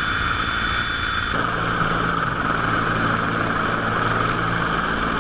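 Helicopter running steadily, a loud, even rushing with a high whine at first; about a second and a half in the whine stops and a low hum comes in.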